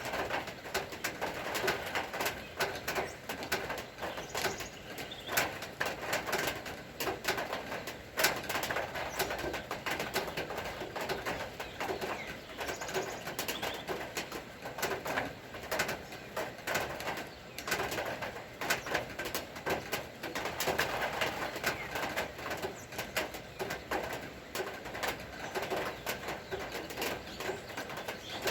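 Rain falling, many irregular drips and taps, with a bird cooing in the background.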